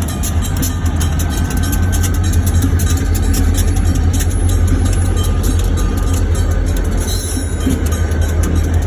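Train in a pushback (shoving) movement, running with a steady low rumble.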